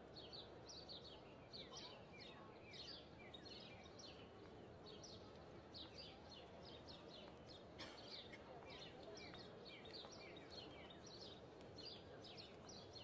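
Many small birds chirping without pause, a dense stream of short, quick downward chirps over a soft, steady hiss of background noise. A single sharp click about eight seconds in.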